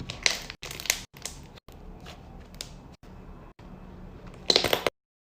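Crunchy slime being squeezed and pressed by hand: a series of short crackling crunches, the loudest a dense run near the end, then the sound cuts off suddenly.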